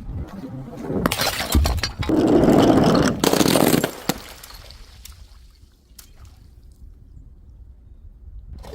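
Glass bottle smashing: a sharp impact, then about three seconds of loud crashing and crackling with sharp clinks as the glass breaks apart, fading after about four seconds to a quieter stretch with a few scattered tinkles of shards settling.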